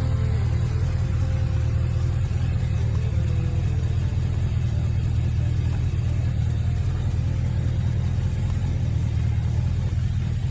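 1979 Chevrolet Malibu's engine running steadily at idle, a deep, even rumble.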